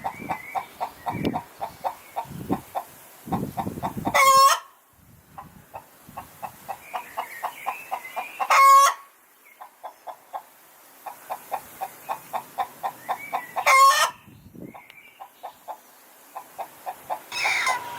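Hen cackling: a fast run of short clucks that builds into a loud, drawn-out squawk, three times over. This is the egg song hens give after laying.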